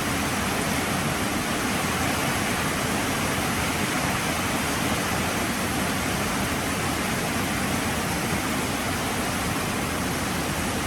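Heavy rain falling steadily, an even, unbroken hiss with no separate drops or thunder standing out.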